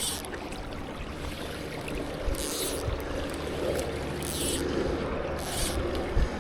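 Fly line being stripped in by hand after a cast: four short, high hissing zips a second or two apart, over a steady low outdoor background.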